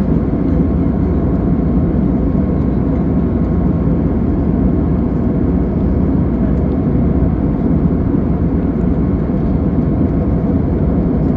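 Steady airliner cabin drone: the low, even noise of engines and airflow heard inside the cabin in flight, with a faint steady hum over it.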